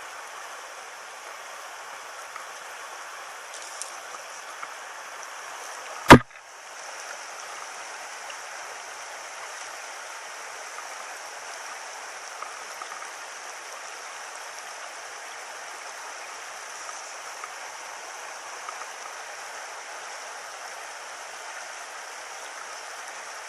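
Small stony stream running steadily, with a single sharp knock about six seconds in.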